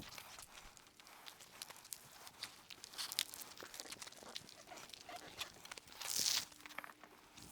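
Soapy wash pad rubbed over a car's foamed paint: a run of small wet crackles and squelches, with a louder hiss lasting about half a second about six seconds in.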